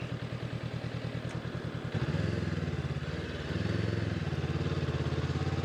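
Honda CB500X's parallel-twin engine running at low speed, its note stepping up louder about two seconds in and again a little later.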